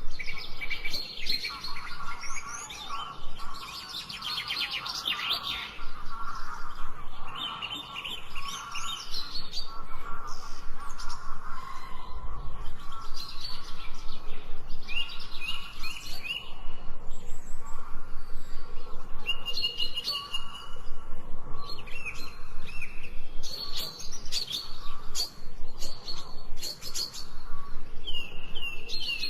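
Birds chirping and singing, several calls overlapping, with short chirps and fast trills.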